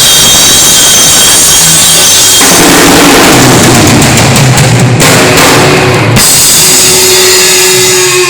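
Rock band playing loud, with the drum kit and cymbals pounding through a song's ending; about six seconds in the drums stop and a single held note rings on.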